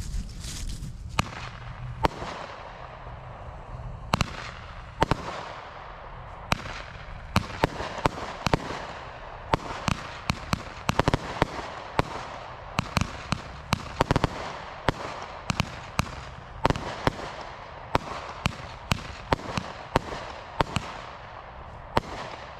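Extra-large Roman candles firing together from a stand: a continuous hiss with dozens of sharp, loud bangs in quick irregular succession, the candles' shots and their bang and dahlia breaks.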